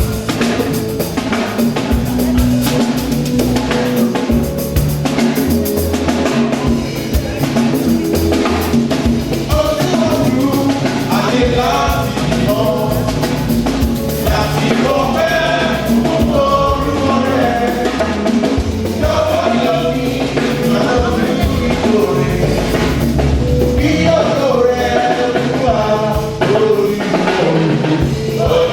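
Church worship music: voices singing over a drum kit and percussion keeping a steady beat, the singing growing stronger partway through.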